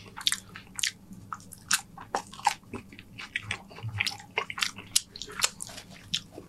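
Close-up crunching of a loaded tortilla chip being bitten and chewed: sharp, irregular crunches several times a second.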